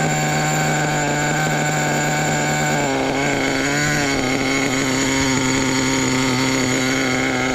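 Nitro RC truck's small glow-fuel engine running steadily, its pitch stepping up about three seconds in and holding higher.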